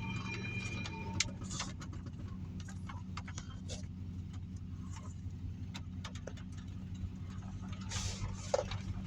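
Heavy rain on a driveway: a steady low rumble of falling and running water, with irregular sharp drips and splashes. A faint held tone fades out about a second in.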